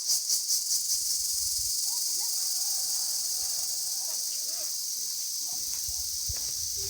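Insects droning in a loud, high-pitched chorus that pulses about four times a second at first, then settles into a steady hiss.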